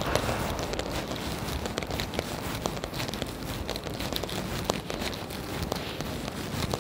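Steady rain falling, with many scattered sharp ticks of drops hitting a surface.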